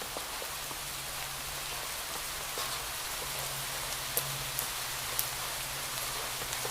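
Steady rain falling, with individual drops tapping sharply here and there over the even hiss. A low steady hum runs underneath.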